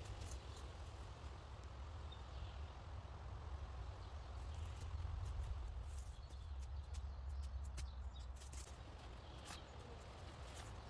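Outdoor woodland ambience: a steady low rumble with scattered small clicks and cracks, and a few faint bird chirps.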